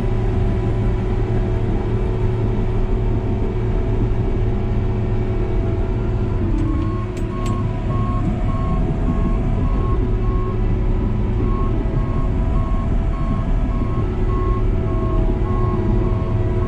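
New Holland D180C crawler dozer's diesel engine running steadily, heard from inside the cab. About six and a half seconds in, the engine note dips briefly and a reversing alarm starts beeping at an even pace.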